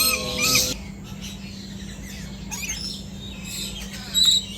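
Several birds calling and chirping: a loud series of repeated calls in the first second, scattered quieter chirps, and one short loud high call near the end.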